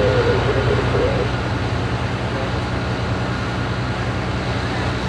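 Steady low drone of a fire engine's diesel engine running at the scene, with a faint voice briefly in the first second.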